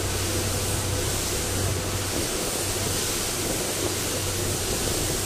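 Steady hiss over a low, even hum, heard from inside a slowly rolling passenger train.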